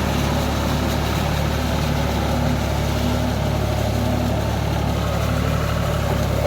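John Deere 5042D tractor's three-cylinder diesel engine running steadily at an even, unchanging speed.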